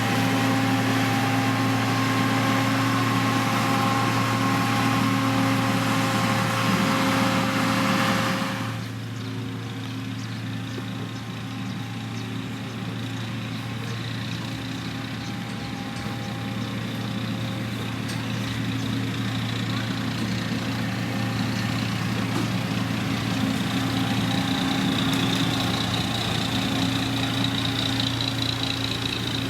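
Diesel engine of heavy road-building machinery running steadily. It drops sharply about eight seconds in, then slowly builds again, with a high whine joining near the end.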